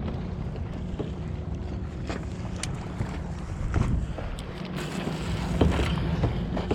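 Wind buffeting the microphone and water lapping against a kayak's hull, with scattered small knocks and a steady low hum underneath.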